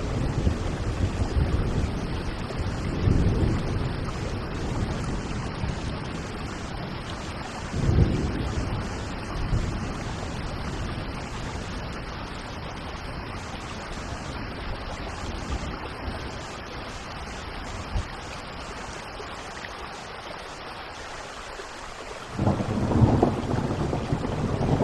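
Steady rain falling in a thunderstorm, with low rolling thunder swelling a couple of times early on and a louder rumble of thunder starting near the end.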